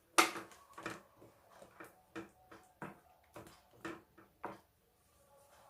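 A sharp click, then a run of light kitchen knocks and taps, about two a second, fading out: utensils against a cooking pot as the stove is turned off.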